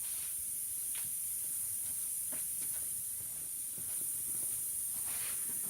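Steady high-pitched hiss with a few faint, brief ticks.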